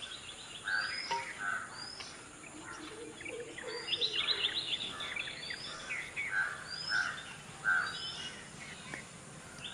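Several birds chirping and singing, one of them repeating a short rising whistle every second or two.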